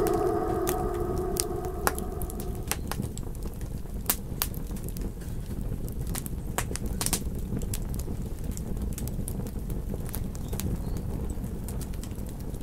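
Campfire crackling, with irregular sharp pops and snaps over a low steady rumble of burning wood. A wolf howl fades out during the first two seconds.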